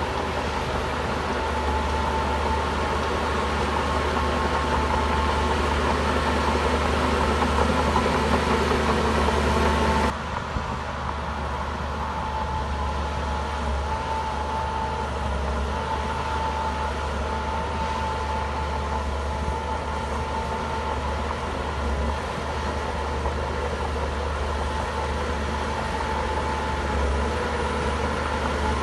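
Shantui bulldozer's diesel engine running steadily with a deep rumble and a faint whine. About ten seconds in the sound changes abruptly to a slightly quieter take of the same steady engine running.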